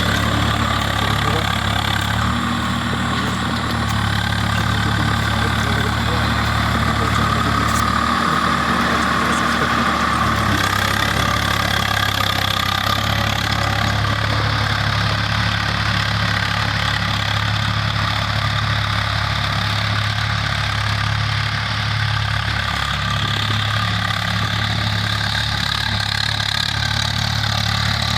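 Swaraj 855 tractor's three-cylinder diesel engine running steadily under load while tilling a field, with its note shifting a few times in the first ten seconds.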